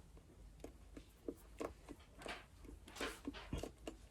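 Paintbrush dabbing acrylic paint onto a canvas: about a dozen soft, irregular taps.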